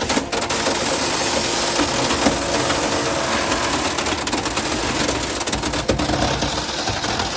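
Hydraulic metal baler running and compressing aluminium extrusions: a steady machine hum under dense clicking and crackling of metal.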